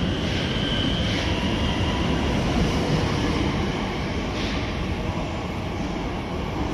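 Electric commuter train running: a steady rumble with a faint high whine in the first second or so and three short hisses.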